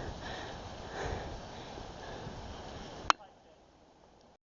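Close, breathy sniffing and rustling noise with faint voice traces, ended by one sharp click about three seconds in, after which the sound cuts off to near silence.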